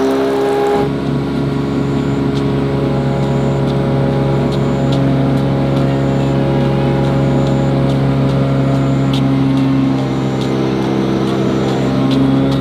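An engine running at a steady speed, with a few faint clicks over it.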